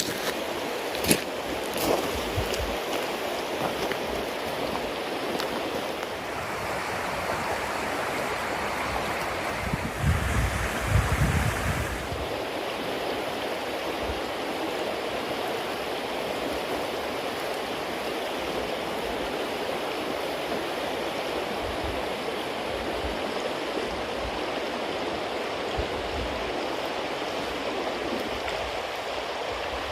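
Bonfire of damp cedar leaves and wood burning with a steady hiss, a few sharp pops and crackles near the start. About ten seconds in there is a louder, deeper rush lasting a couple of seconds.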